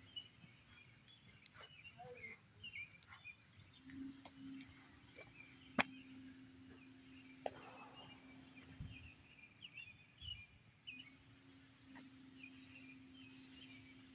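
Faint, scattered bird chirps over a steady low hum, with a few sharp clicks, the loudest about six seconds in.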